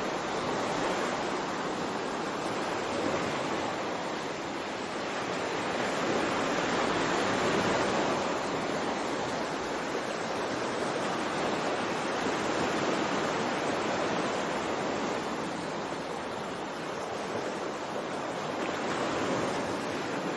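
Steady rushing water, a wide even noise that swells and eases slowly every few seconds.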